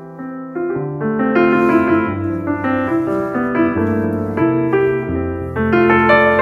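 Background piano music: a melody of notes changing every fraction of a second over held lower notes.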